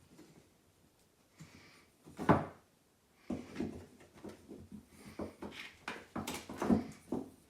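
Handling knocks in a small room: one loud knock about two seconds in, then a run of smaller, irregular knocks and clatters.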